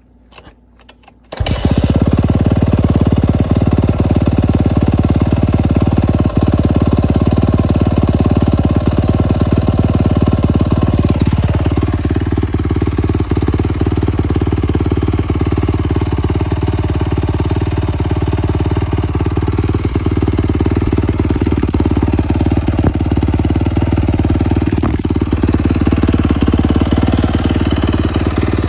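Yamaha YZ250F dirt bike's 250 cc four-stroke single-cylinder engine held at full throttle against its rev limiter, loud and steady. It comes in suddenly about a second and a half in.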